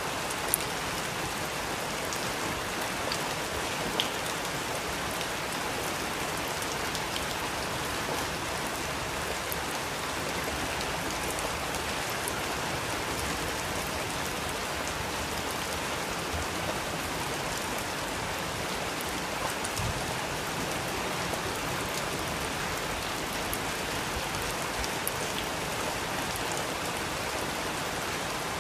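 Steady rain falling on surfaces, with a dense hiss and scattered individual drop ticks, a couple slightly louder ones near the start.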